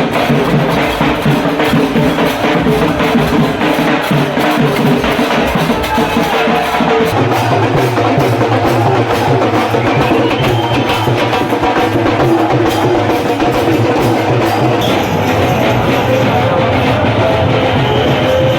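Dhol-tasha drums in a procession band beating a fast, continuous rhythm, with sustained musical tones over it; a deeper steady tone joins about seven seconds in.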